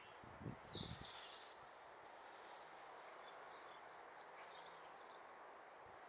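Faint garden birdsong over a steady outdoor hiss: a high chirp sliding downward about half a second in, then scattered high twittering chirps around the middle. A brief low rumble comes near the start.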